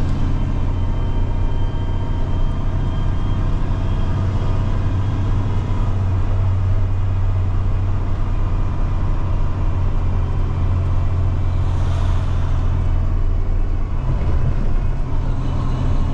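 Semi truck's diesel engine running steadily under the load of a heavy trailer, a constant low drone, with a brief hiss late on.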